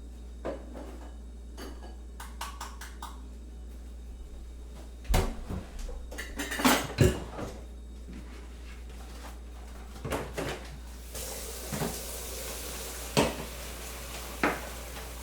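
Kitchen crockery and cutlery clinking and knocking as things are handled, with a burst of louder clattering about a third of the way in and scattered knocks later. A steady hiss starts about two thirds of the way in, over a low constant hum.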